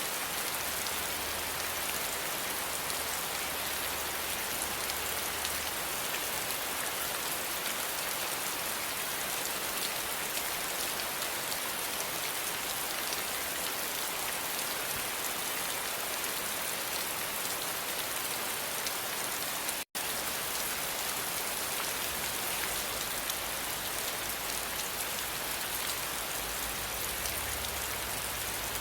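Steady rain falling on a surface, a dense, even patter of drops, with a split-second dropout to silence about two-thirds of the way through.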